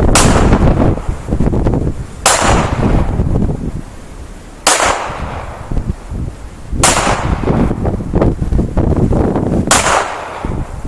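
Five shots from a Taurus Millennium PT138 Pro .380 ACP pistol, fired one at a time about two to three seconds apart, each a sharp crack with a short decaying tail. Between the shots, wind buffets the microphone with a low rumble.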